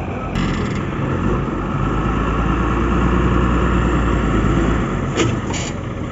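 Heavy diesel engine revving under load. It steps up just under half a second in, runs loudest through the middle, and eases off near the end, with a sharp knock just after that.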